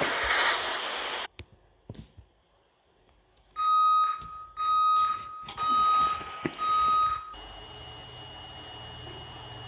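Train door-closing warning: four beeps of one steady tone, each about half a second long and about a second apart, starting a few seconds in. A low steady hum follows.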